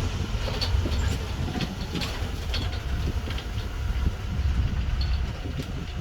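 A vehicle driving over a rough road: a steady low rumble with frequent rattles and knocks.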